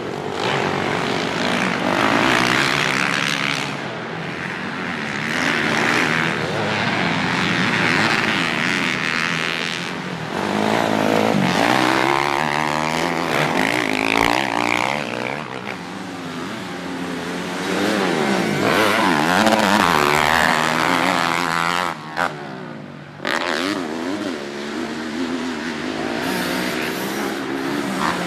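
Dirt bike engine revving up and down over and over as the bike is ridden, with a brief lull about three quarters of the way through.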